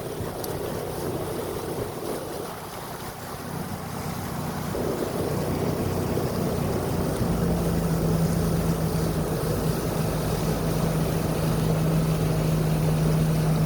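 Motorboat engine running steadily under way, with wind on the microphone and rushing water. The engine's drone holds one pitch and grows louder about halfway through.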